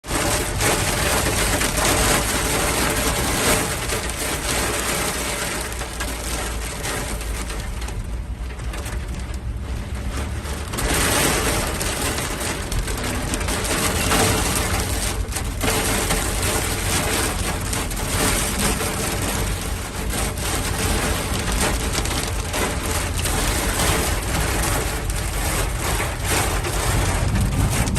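Hail and heavy rain drumming on a moving car in a dense patter of hits, over a steady low rumble of the car on the road. The drumming eases for a couple of seconds about eight seconds in, then picks up again.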